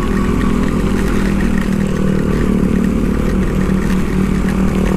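Motorcycle engine running at a steady pace while riding, with no rise or fall in revs.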